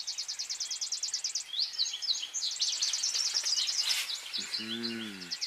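Songbirds singing: a rapid, high trill of evenly repeated notes, followed by assorted short chirps and whistles. Near the end comes a brief low pitched call or hum of under a second.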